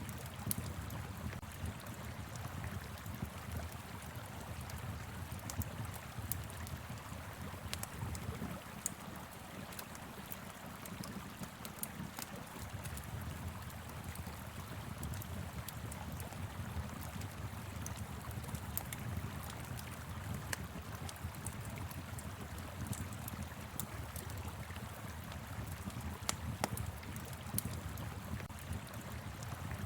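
Wood fire crackling, with scattered sharp pops and snaps, over a steady rush of flowing river water and wind.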